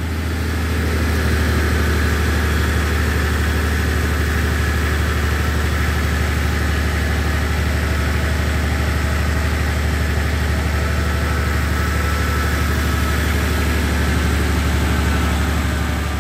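Off-road vehicle engine idling steadily, a deep even hum with a faint steady whine above it.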